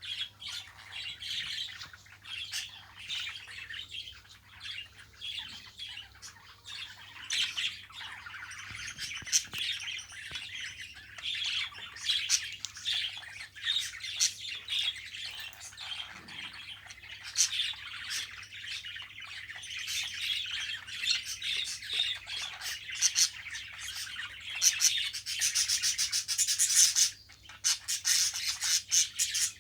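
Budgerigar chattering without pause, a busy stream of short chirps and warbles mixed with many sharp clicks, growing louder and denser near the end.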